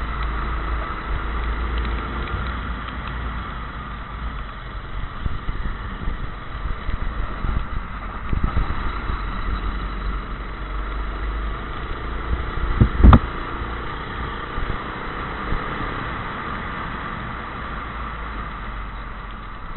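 Go-kart engine running, its pitch slowly rising and falling, under a steady low rumble. There is one sharp thump, the loudest sound, about two-thirds of the way through.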